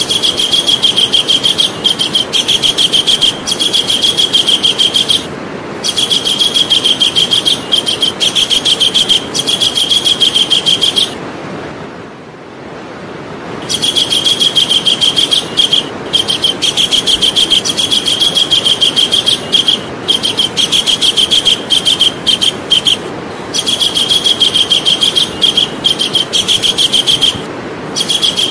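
Javan kingfisher calling: fast rattling series of high notes at one steady pitch, given in loud runs of a few seconds with brief breaks, and one longer pause a little before halfway.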